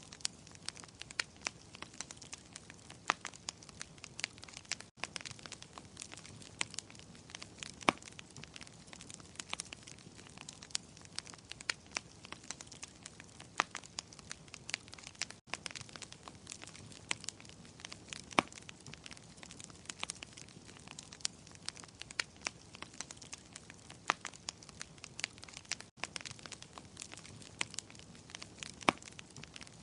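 Wood fire crackling in a fireplace: irregular sharp pops and snaps over a soft steady hiss, with three momentary drop-outs in the sound about ten seconds apart.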